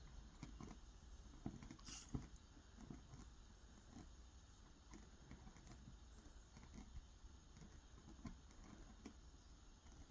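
Near silence with faint, irregular small ticks and clicks, one a little stronger about two seconds in.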